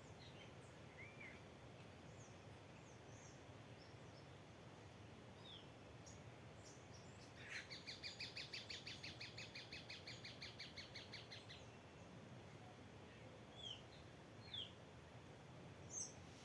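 Wild birds calling: scattered short high chirps. In the middle comes a rapid trill of about eight notes a second, lasting about four seconds.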